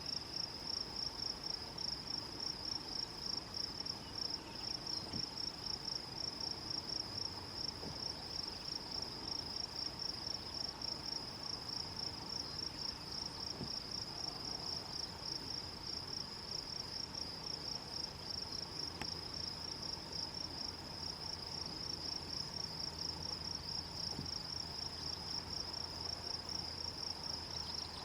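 A chirping insect calls steadily in a high-pitched, rapid and even pulsing chorus.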